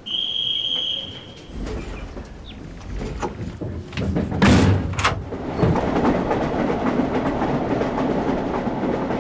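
A short high steady tone about a second long, then a rumble builds as the passenger train moves off. About four and a half seconds in a carriage door slams shut with a smaller knock after it, and the train runs on with a steady rumble and rattle of wheels on rail.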